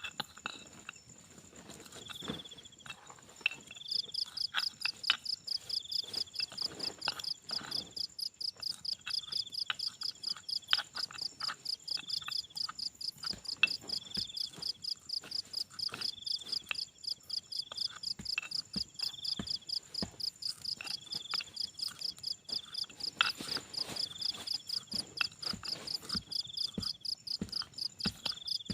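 Night insect chorus: a cricket starts a rapid, evenly pulsed high chirping about four seconds in, over a steady high whine. A second chirp comes back about every second and a half, with scattered sharp clicks.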